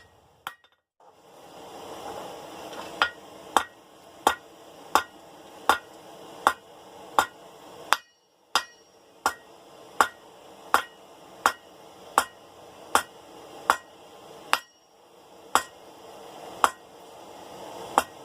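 Blacksmith's hand hammer striking hot 1/2-inch round steel bar on an anvil in a steady rhythm, about one blow every three-quarters of a second, drawing the bar's end out to a blunt taper. The hammering stops briefly twice, about a second in and about eight seconds in.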